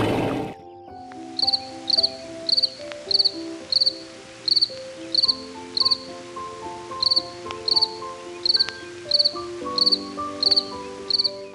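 An insect chirping at an even pace, about one short, pulsed chirp every half second, with a brief pause midway. Gentle melodic background music plays under it.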